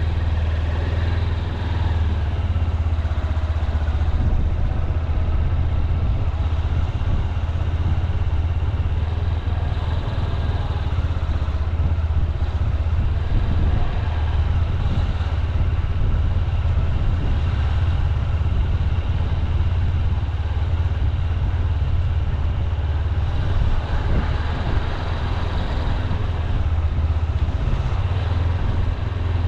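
Honda CB200X's single-cylinder engine running at low speed, a steady low drone.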